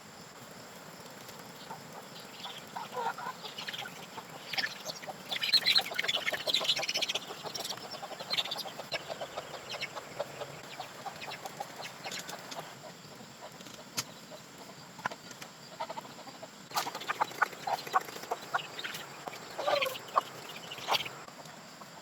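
Chickens clucking in irregular bursts, busiest in the first third and again near the end, with a few sharp clicks among them.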